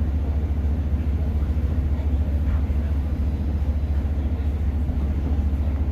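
Steady low rumble heard inside a Class 150 diesel multiple unit under way: the underfloor diesel engine and the wheels running on the rails.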